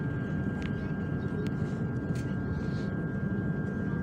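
Steady low rumble of a KTM passenger train running, heard from inside the carriage, with a constant high whine and a few short clicks.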